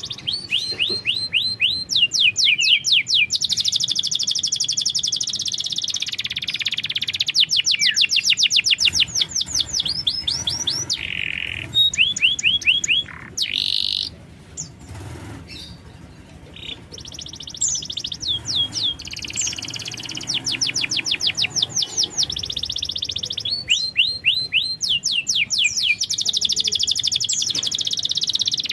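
Domestic canary singing a long, loud song of fast trills and rapidly repeated sweeping notes, broken by a short pause about halfway through.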